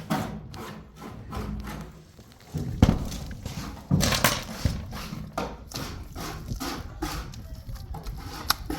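Irregular knocks, thuds and scuffs, with the loudest strikes about three and four seconds in.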